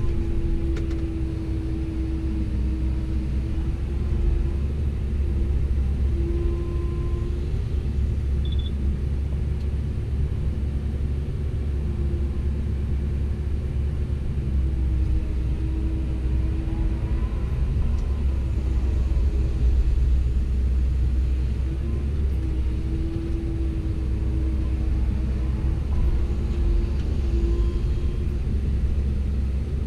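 Komatsu PC170LC-10 excavator's diesel engine running with a steady low rumble, with a hydraulic whine that comes and goes and wavers in pitch as the boom and bucket are worked.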